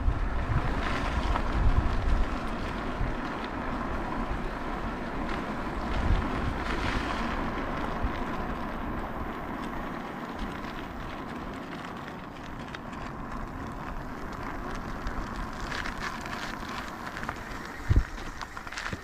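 Wind rushing over the microphone and tyre rumble from an e-bike riding along. A short knock near the end.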